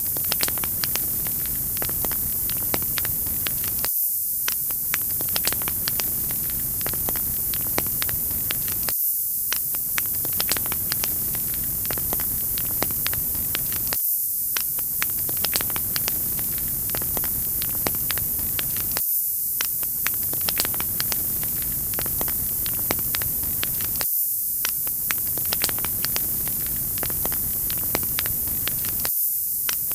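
Wood fire crackling: a steady hiss with frequent sharp pops and snaps. The lower part of the sound drops out briefly about every five seconds.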